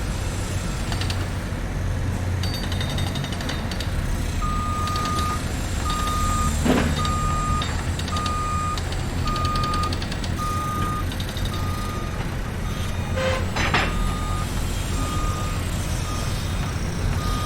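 A heavy truck's reversing alarm beeping, a single high tone about twice a second, starting a few seconds in, over the steady rumble of diesel machinery. Metallic clatter and a couple of short hisses are mixed in.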